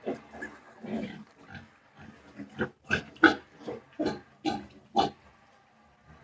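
Young piglets calling: a run of short calls, a few a second, that thins out and stops near the end.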